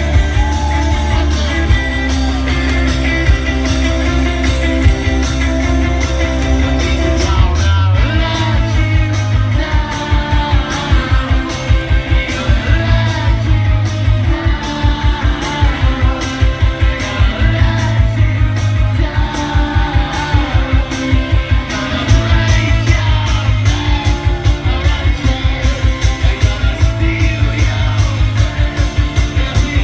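Rock band playing live: electric guitars, drums and a singing voice. About eight seconds in, a held section breaks off into a fast, driving beat.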